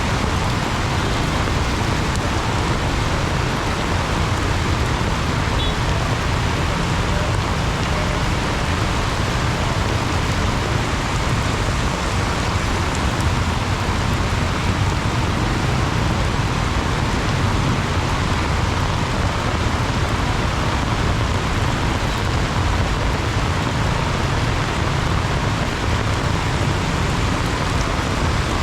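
Heavy rain pouring steadily: a dense, even hiss with a strong low rumble underneath and no let-up.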